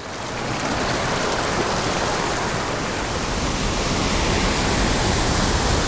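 Small stream's water rushing steadily, an even hiss with no breaks.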